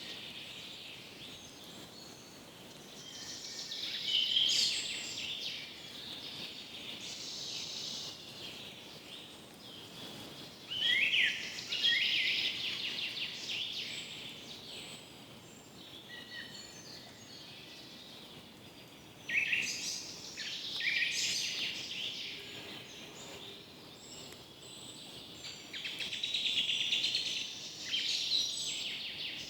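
Forest birds singing: bouts of quick, high chirps and trills come and go every few seconds over a faint steady hiss.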